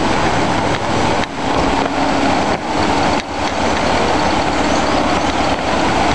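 Swollen river in flood: a steady, loud rush of fast floodwater with a deep rumble underneath.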